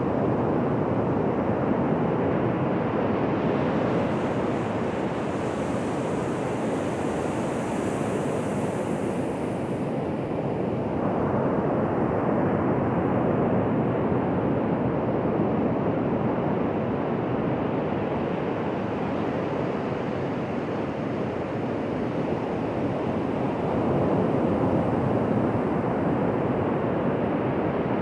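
Ocean surf washing onto a beach: a steady rushing noise that slowly swells and eases as the waves come in.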